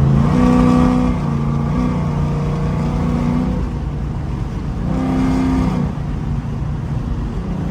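Ford Crown Victoria's engine and exhaust droning steadily, heard from inside the cabin while driving, with the engine note rising twice as the car pulls.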